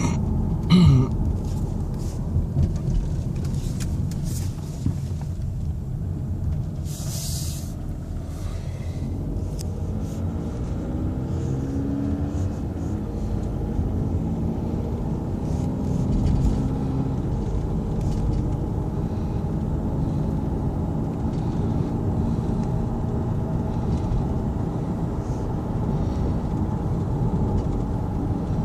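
2014 Volkswagen Passat TDI's four-cylinder turbodiesel running, a steady low rumble whose pitch wavers up and down around the middle. A brief hiss comes about seven seconds in.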